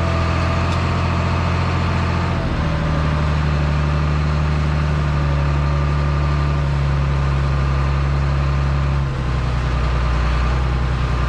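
Heavy engine running steadily, its pitch stepping abruptly to a new level about two and a half seconds in and again about nine seconds in.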